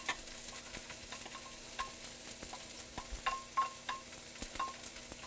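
Chopped onion sizzling and crackling in hot olive oil in a frying pan while being stirred, with several light clinks of a utensil against the pan.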